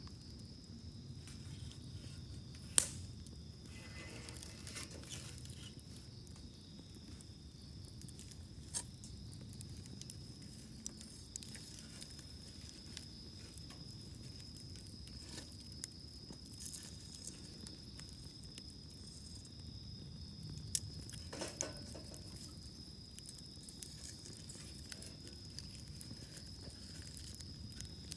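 Wood fire burning in a campfire grill, crackling with scattered sharp pops; the loudest pop comes about three seconds in, with a few more near the middle and two close together about two-thirds through.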